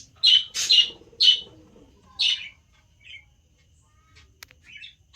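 Small birds calling with loud, short, high chirps four times in the first two and a half seconds, then a few fainter calls and a single click near the end.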